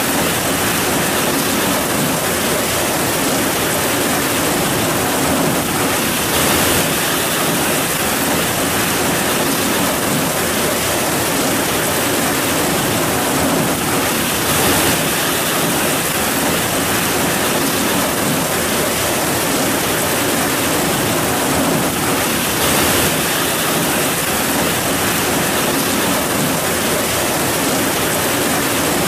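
Heavy rain falling in a steady, dense downpour, a loud even hiss with slight swells now and then.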